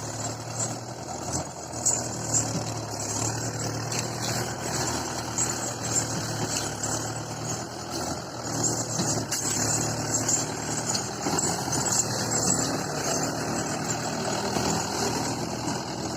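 Tractor engine running steadily, with a constant high hiss.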